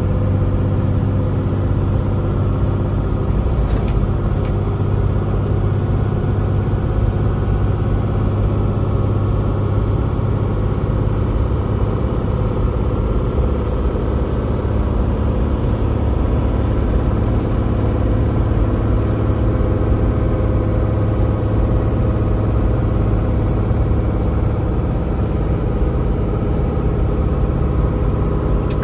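Semi truck running at highway cruising speed, heard inside the cab: a steady drone of the diesel engine mixed with road noise.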